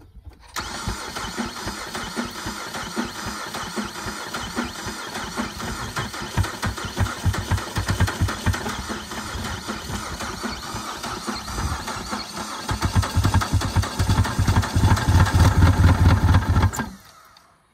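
Ford Fusion engine running on silicone caulking in place of engine oil, cranking and catching on a few liters of fresh fuel. It runs, getting louder from about twelve seconds in, then cuts off suddenly near the end.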